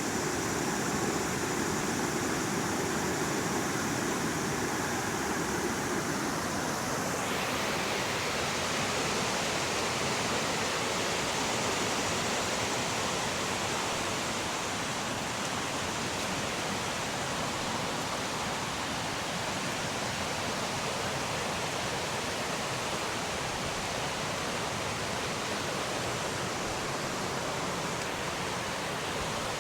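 Fast-flowing river water rushing steadily over rocks. About seven seconds in, the rush turns higher and hissier.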